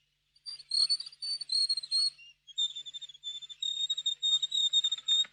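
Small bird in a cartoon sound track calling with high, pulsing whistles: one long trilled note, then after a short break a second, slightly lower one running on to the end.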